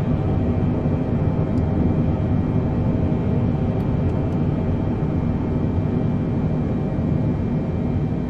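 Boeing 747-8 jet engines running steadily during the takeoff climb: a constant low rumble with a faint steady hum.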